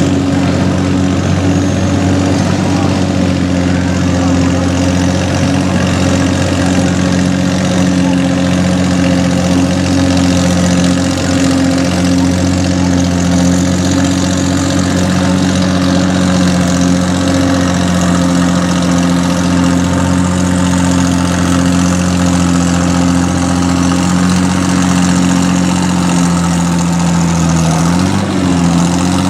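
Farm pulling tractor's engine running at a steady idle, its pitch holding level, with a brief small dip in speed near the end.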